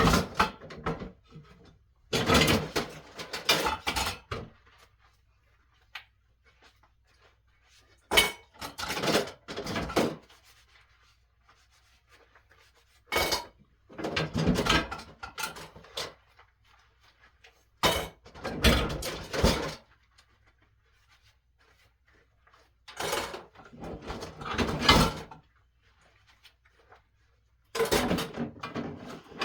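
Dishes, pots and utensils being handled and set down: bursts of clattering knocks every few seconds, with quiet between them.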